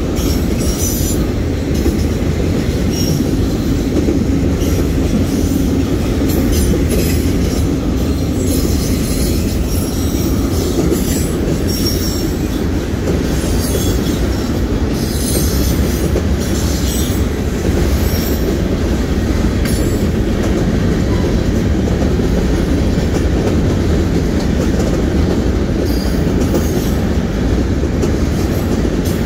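Union Pacific freight train of autorack cars rolling past at speed: a steady heavy rumble of wheels on rail. Short high-pitched wheel squeals come and go over it, growing sparse about twenty seconds in.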